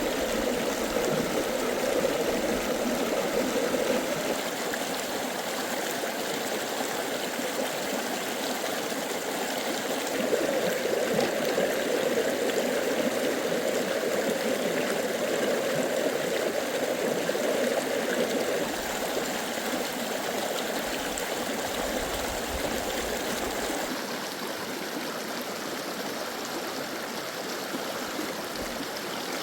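Steady rushing of a flowing stream, swelling and easing a little, becoming slightly quieter and thinner about three-quarters of the way through.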